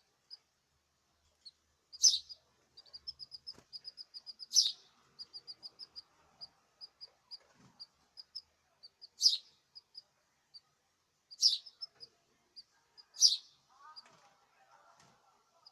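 Caged male songbird singing: long runs of short, rapid high chirps, broken by five much louder sharp calls.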